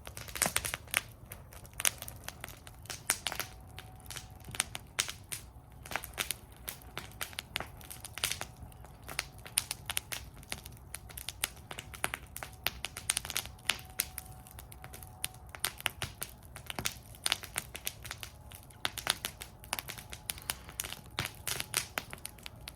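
Wood fire burning in a metal fire bowl, crackling and popping irregularly over a low steady rumble of the flames.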